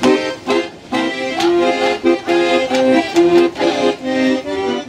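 Accordion playing a lively traditional tune, chords changing several times a second.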